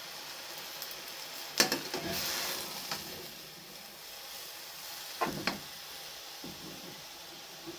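Chicken back and vegetables sizzling steadily in a frying pan. A few sharp knocks sound against the pan, the loudest about a second and a half in and a pair about five seconds in, as the food is stirred.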